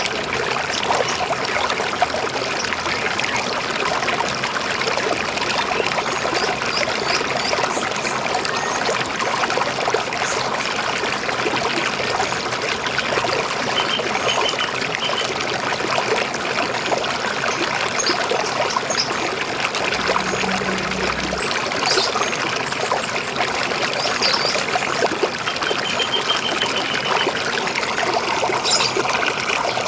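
River water flowing steadily over stones, an even trickling and rushing, with a few faint bird chirps now and then.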